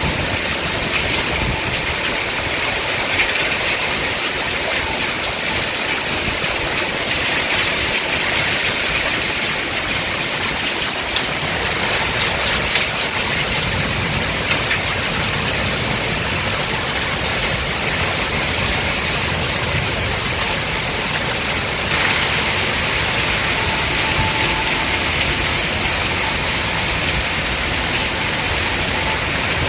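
Heavy rain pouring down in a summer storm, a steady rushing noise with no letup.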